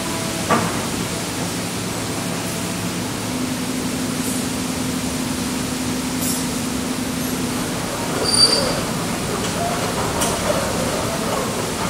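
Kobelco excavator running steadily, with a low held tone through the middle and a brief high-pitched squeal about eight seconds in.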